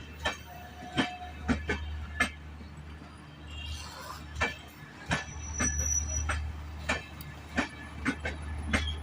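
Passenger train sounds: a steady low rumble with irregular sharp clicks and knocks, and a brief thin whine about a second in and another near the middle.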